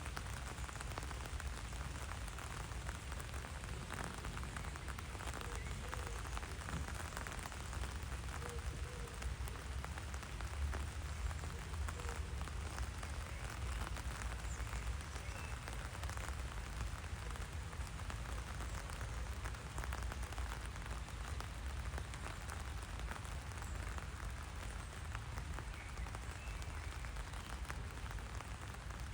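Steady rain falling: an even patter and hiss that holds through, with a low rumble beneath it.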